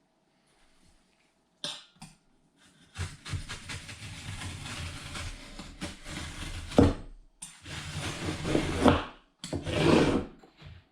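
A sheet of duct material being handled and cut by hand: a long run of scraping and rustling with a few sharp knocks, the loudest near the end.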